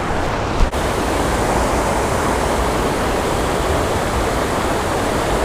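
Water pouring steadily over a small creek waterfall and spillway, a dense even rush. A brief thump about half a second in.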